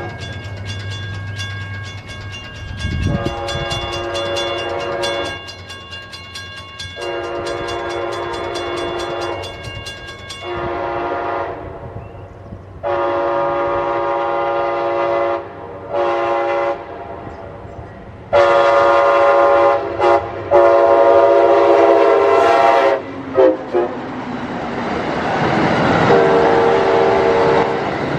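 Amtrak locomotive air horn sounding a series of long and short blasts, growing louder as the train approaches: the grade-crossing warning. In the last few seconds the train rushes past with loud wheel-and-rail noise and one more horn blast.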